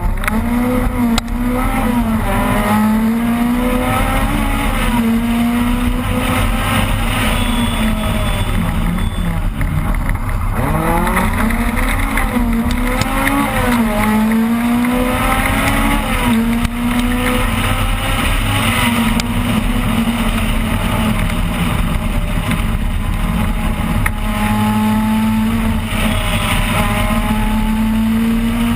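Opel Kadett rally car engine under hard acceleration, heard from inside the car. The pitch climbs, drops sharply at each gear change or lift, and climbs again several times.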